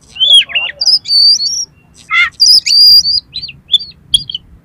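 Oriental magpie-robin (kacer) singing a fast run of varied phrases: clear whistles mixed with a harsh, scratchy note about two seconds in. The song stops shortly before the end.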